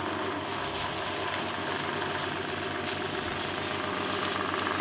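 Onions and freshly added ginger-garlic paste frying in a pan with a steady sizzle, over a steady low mechanical hum.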